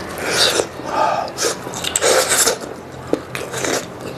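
A person eating a freshly steamed bun, with about four short, hissing, breathy mouth sounds roughly a second apart.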